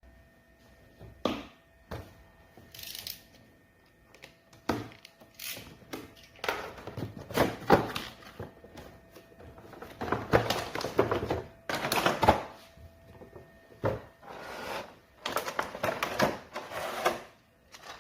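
Hands handling and opening a toy's packaging: irregular rustling and scraping of cardboard and plastic, broken by sharp clicks and knocks.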